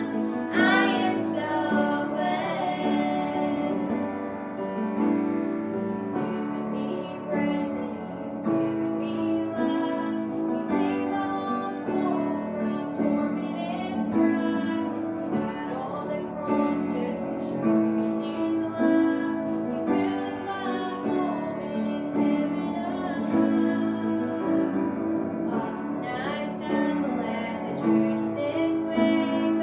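A gospel song sung by female voices, with some child singing, over piano accompaniment.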